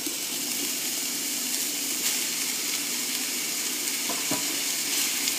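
Minced meat, ham and diced vegetables sizzling steadily in a stainless steel wok, with a faint tap of the spatula about four seconds in.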